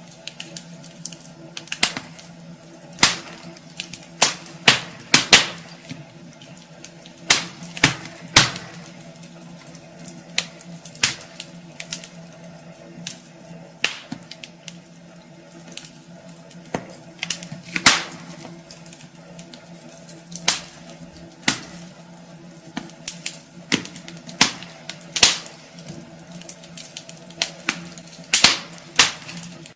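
Wood fire burning in a fireplace: logs crackling, with irregular sharp pops and snaps over a soft steady hiss.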